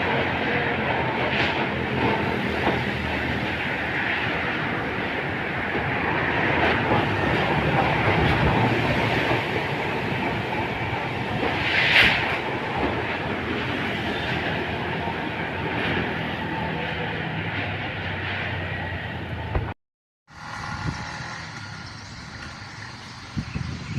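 Storm wind blowing hard and steadily, with a brief louder burst about twelve seconds in. Near the end the sound cuts out for a moment and comes back quieter.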